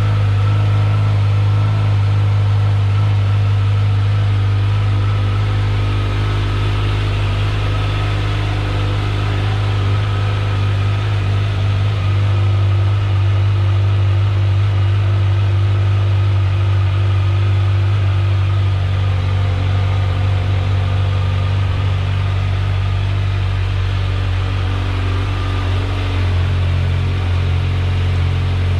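Kawasaki Z900's inline-four engine idling steadily through its stock exhaust while warming up, with a slight change in the idle note near the end.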